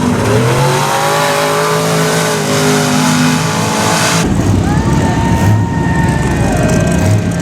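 Mud truck engine revving, its pitch climbing and holding for about four seconds over loud hiss, then the sound changes as a different engine note takes over, wavering up and down.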